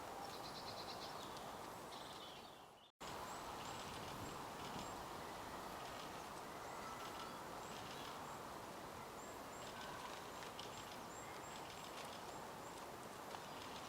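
Outdoor bird ambience: small birds chirping and trilling in short high phrases over a steady background hiss. The sound fades and drops out completely for a moment about three seconds in, then resumes.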